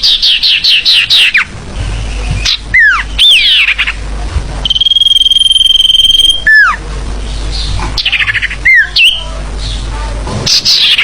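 Mixed forest bird calls from a bird-trapping lure recording, several birds calling over each other: a fast run of chirps, then downward-sliding whistles, a long steady high trill lasting about two seconds, and more slurred whistles and chirp runs near the end.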